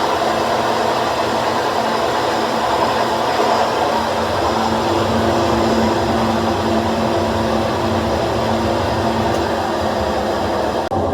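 GE top-load washing machine running with a loud, steady drone like an airplane, with a pitched hum that grows stronger about five seconds in. The noise comes from a broken tub bearing and failed gaskets.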